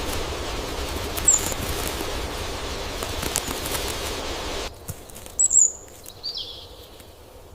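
Outdoor nature ambience: a steady background hiss with a few short, high bird chirps. The background drops away abruptly about two thirds of the way in, leaving two more bird calls.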